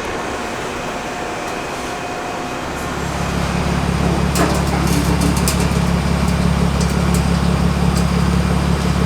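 A BMW E36 M3's straight-six running steadily through its exhaust, now fitted with a Magnaflow muffler. A steady low drone sets in about three seconds in, over a noisy rumble, with a few sharp clicks around the middle.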